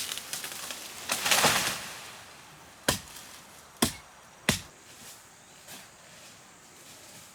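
Blade chopping bamboo: a quick run of light strikes, then a longer rasping noise about a second in, then three sharp chops roughly a second apart, after which only faint taps remain.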